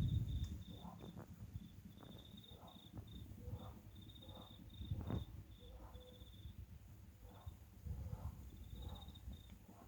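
Crickets chirping: a high-pitched trill broken into short pulsed bursts that repeat throughout, with faint short chirps lower in pitch alongside.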